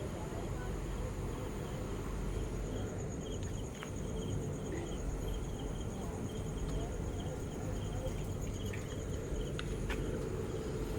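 Insects chirping, probably crickets, in a steady run of short, high, evenly repeated pulses over a steady low rumble.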